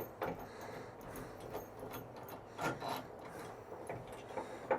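A wooden board and a metal bolt being handled and fitted together: wood rubbing and scraping, with a scatter of light knocks and clicks.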